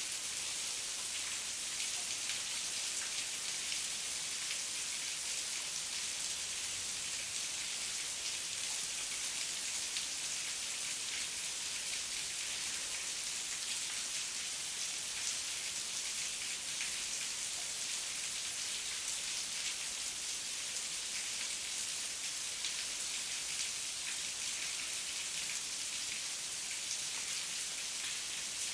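Heavy rain falling steadily, a dense hiss with many fine drop patters.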